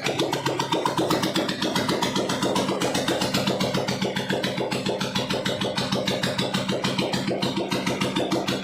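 Royal Enfield Bullet Standard 350's single-cylinder engine idling with a steady, even beat.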